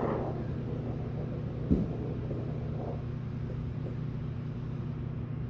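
A golf driver strikes the ball once, a sharp crack about two seconds in, over a steady low hum.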